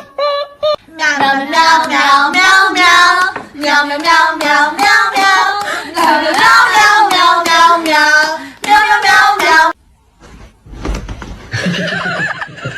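A high-pitched voice vocalizing in long, wavering sung notes for about nine seconds, then stopping abruptly.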